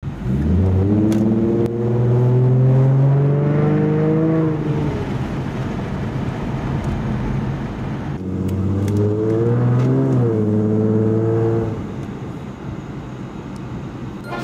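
Ford Mustang engine heard from inside the car, accelerating twice with its pitch rising each time. There is a brief dip in pitch during the second pull, like a gear change, and the engine then settles to a lighter cruise.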